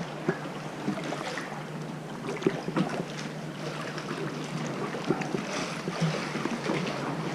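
Sea water lapping and sloshing around a kayak, with many small splashes, drips and knocks against the hull, over a steady low hum.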